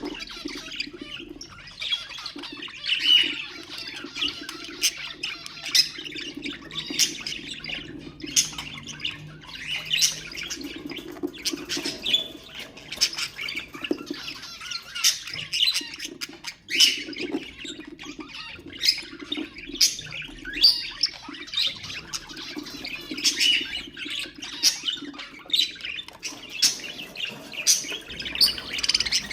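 Budgerigars chattering and warbling nonstop, with a dense run of short, sharp calls throughout.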